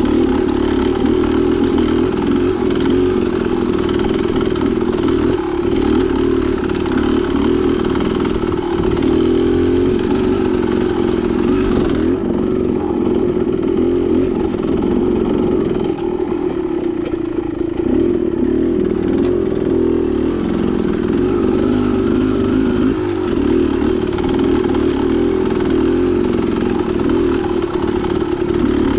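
Dirt bike engine running while riding, its revs rising and falling. The higher hiss drops away for several seconds midway.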